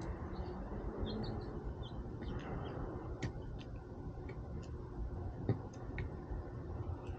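Irregular sharp clicks and cracks of a squirrel gnawing at food, with one stronger crack about five and a half seconds in and a few faint, short high chirps near the start, over a low background rumble.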